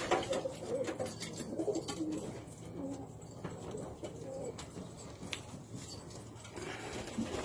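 Domestic pigeons cooing, with scattered sharp clicks and scrapes.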